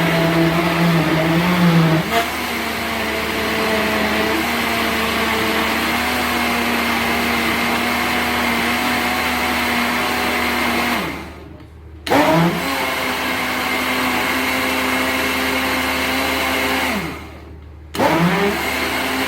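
Electric blender puréeing raw tomatoes, green pepper, onions, ginger and garlic. The motor runs for about eleven seconds, with its pitch stepping up about two seconds in, then winds down. It is switched on again for about five seconds, winds down, and starts once more near the end.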